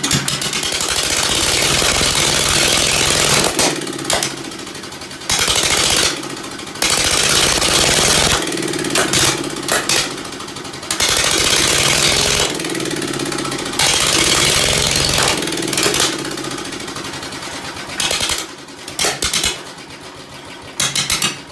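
Old Ford engine running rough on shots of starter fluid, loud in stretches that sag several times and pick up again as it struggles to keep going. It will only run on ether; the owner suspects the fuel pump went dry, with the carburetor far out of tune.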